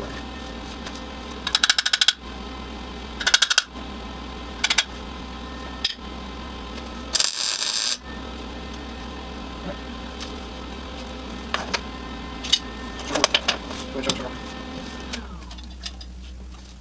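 Metal hand-tool work: bursts of rapid metallic clicking and clinking, several clusters a second or two apart, with a brief hiss about seven seconds in, over a steady low hum that stops near the end.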